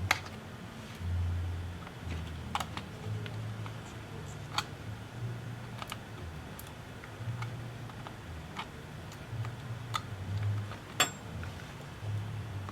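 Light, irregular clicks and taps from hand work on a small electronic device, a dozen or so spread unevenly over several seconds, over a low hum that comes and goes.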